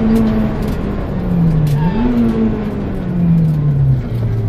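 VW Polo 1.4 rally car's engine heard from inside the cabin: the revs dip under braking for a hairpin, climb sharply about two seconds in as it accelerates out, then fall away steadily toward the end.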